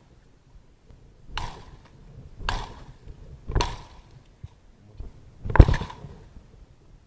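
A machete chopping into brush and wood, four strokes roughly a second apart, the last one the hardest, to hack a trail.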